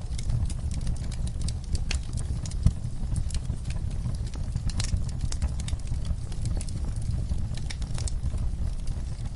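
Fire in a fireplace crackling: a dense scatter of sharp pops and snaps over a steady low rumble, with one louder pop about two and a half seconds in.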